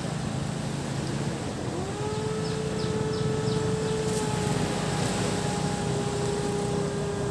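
A motor engine running with a steady low drone over an even wash of beach ambience. About two seconds in, a higher pitched engine tone rises and then holds steady. A few short high chirps come in the middle.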